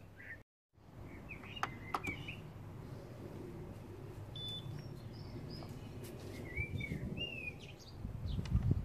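Outdoor ambience: small birds chirping on and off over a steady low background noise, with a low bump near the end.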